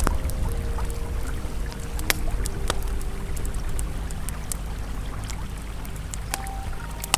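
Campfire crackling with occasional sharp pops over the steady rush of a flowing river. Soft, sustained ambient music tones are held underneath.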